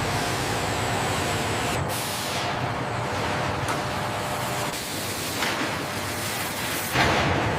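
Steady industrial background noise with a faint hum, swelling several times into hissing whooshes; the loudest is near the end.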